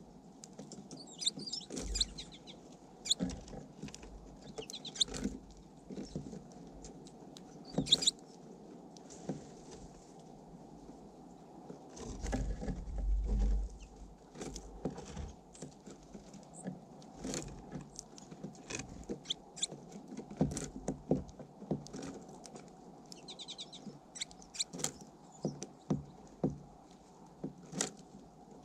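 Small birds at a close-up feeder pecking and tapping at seed in many quick irregular clicks, with a few short high chirps. A low rumble comes in about midway for a couple of seconds.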